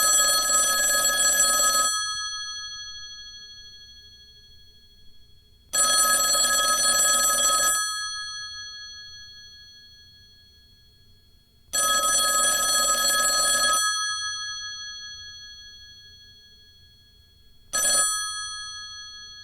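Old rotary telephone's mechanical bell ringer ringing: three rings of about two seconds each, about six seconds apart, each trailing off as the bells decay, then a short burst of ringing near the end.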